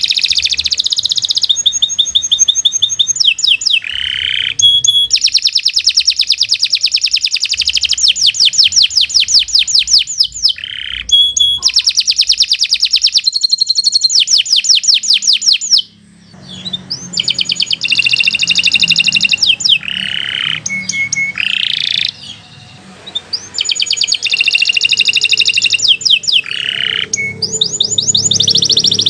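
Domestic canary singing a long, unbroken song of fast trills, each phrase a rapid run of repeated high notes, with a brief pause about sixteen seconds in.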